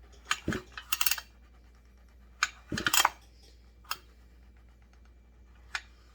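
Short metallic clinks and knocks of tools and small chainsaw parts being handled on a workbench, coming in a few separate clusters.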